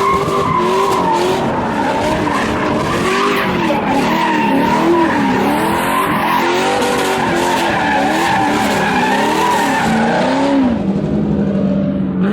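A car engine revving up and down over and over while its tyres squeal in a burnout or donut. Near the end the revs hold steady for about a second.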